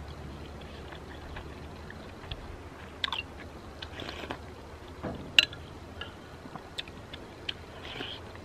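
Close mouth sounds of a person chewing and eating wonton noodle soup from a spoon: soft chewing with scattered small clicks and smacks, the sharpest one about five and a half seconds in.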